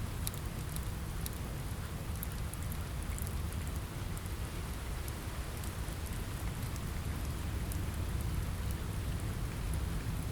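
Steady rain on a window mixed with a crackling fire: a constant hiss over a low rumble, with frequent small, sharp crackles and ticks.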